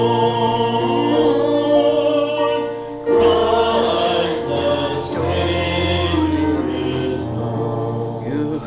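Church congregation singing a hymn in long held notes, with a short break about three seconds in; the last chord fades near the end.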